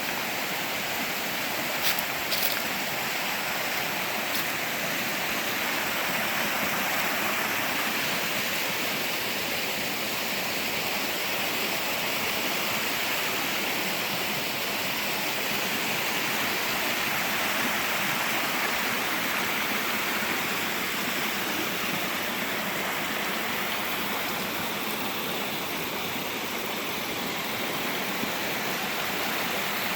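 Creek water rushing steadily over its bed, with a couple of brief clicks about two seconds in.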